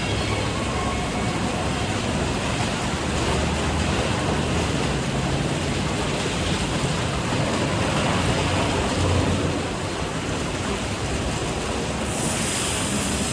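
Automatic tunnel car wash running: a steady rush of water spray and machinery with a low motor hum. A hissier, higher spray comes in near the end.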